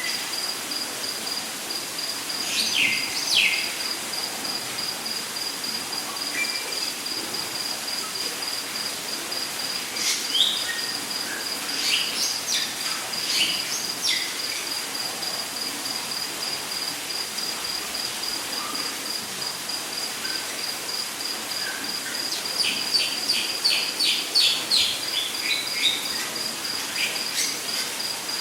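Rainforest ambience: an insect chirps on one high pitch in quick, even pulses throughout, while birds call now and then, with a quick run of repeated calls about two-thirds of the way through, over a steady background hiss.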